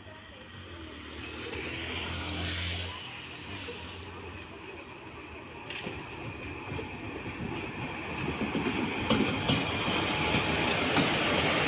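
Indian Railways electric locomotive approaching, its rumble growing steadily louder. In the last few seconds, sharp clicks of wheels over rail joints join in as it draws near.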